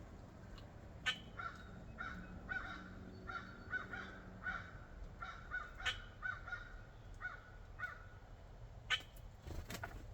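A bird repeating short, harsh calls about twice a second, stopping about eight seconds in, with a few sharp taps or clicks; the loudest come about a second in and near the end.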